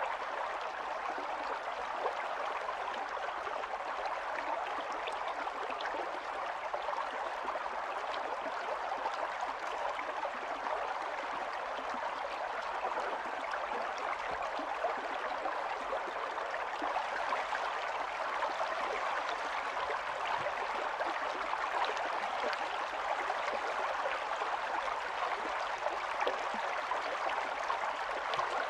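Running stream: shallow water flowing and splashing steadily over stones, a continuous babble.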